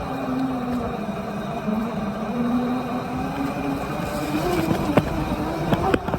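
Dirt bike engine running as it is ridden, its pitch dipping and rising with the throttle, with a few sharp knocks near the end.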